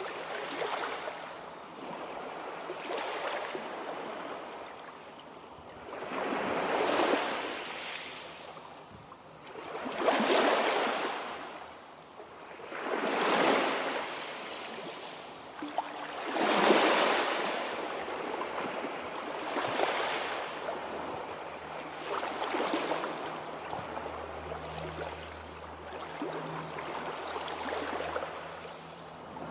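Sea waves breaking and washing on the shore, one surge about every three seconds, each swelling and fading in a rush of hiss.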